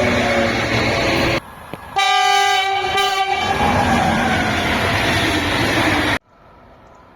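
A train passing at speed close by, with slowly falling pitched tones in its running noise. About two seconds in, a locomotive horn sounds a single steady note for just over a second. The train noise cuts off suddenly about a second before the end.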